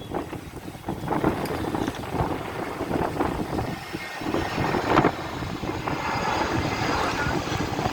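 Aircraft engine noise from a landing airliner, a steady rumble with a few brief louder bumps.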